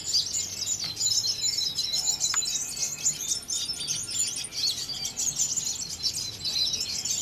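Many caged olive-backed sunbirds (kolibri ninja) singing at once: a dense, unbroken tangle of high, rapid chirps and trills.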